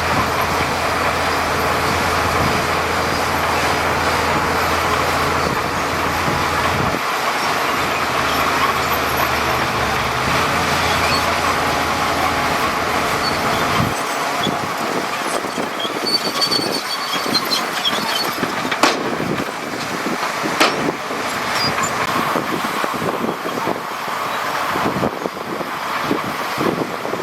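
Heavy diesel earth-moving machinery running: a steady low engine drone for about the first half, giving way to lighter engine noise with scattered clanks and knocks.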